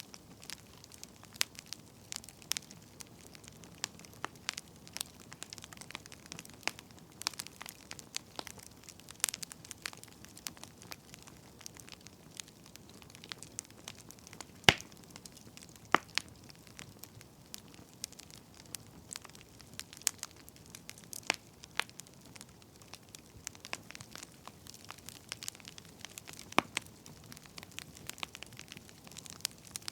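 Wood fire crackling, with irregular sharp pops over a soft hiss and a few louder pops near the middle.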